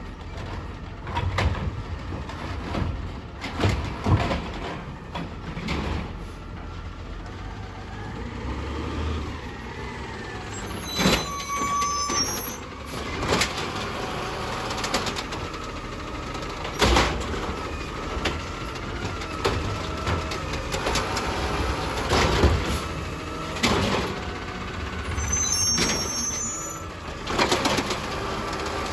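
Recycling garbage truck running while it collects, with repeated clanks and bangs as bins are handled and emptied. Two short hisses of air are heard, about 11 seconds and 26 seconds in.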